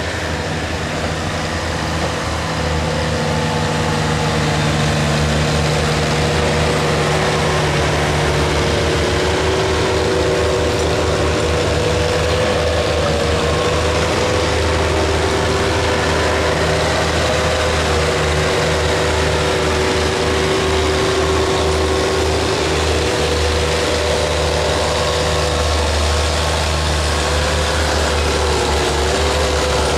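Oliver 77 tractor engine running hard at a nearly constant speed while pulling the weight sled in a pure stock tractor pull, its pitch dipping slightly a couple of times near the end as it labours under the load.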